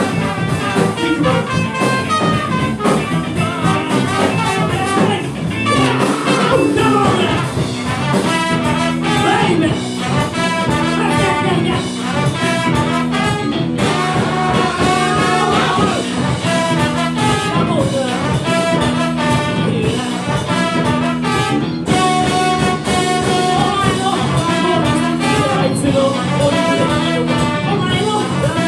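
Live funk band playing, with a brass section over the rhythm section.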